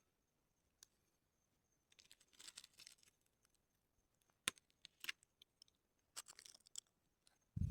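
Faint, sparse handling noise: soft crinkling and rustling in short clusters, with a few sharp small clicks, one about four and a half seconds in.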